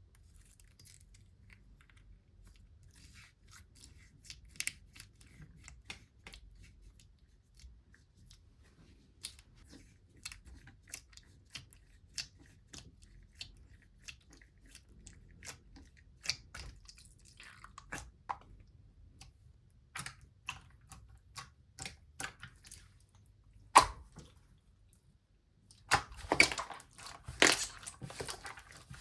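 Slime being pressed and stretched by hand, giving scattered sticky clicks and pops, with one sharp snap and then a dense stretch of crackling near the end.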